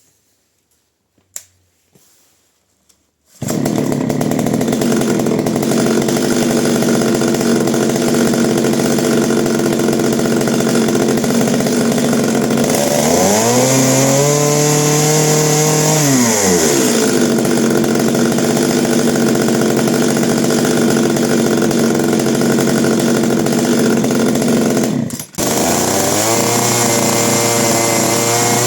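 Shindaiwa 1032S two-stroke chainsaw being run for a running check. After a few faint clicks, the engine starts and runs steadily. Near the middle it is revved once, rising and then falling back, and about 25 seconds in it drops out for an instant before running on.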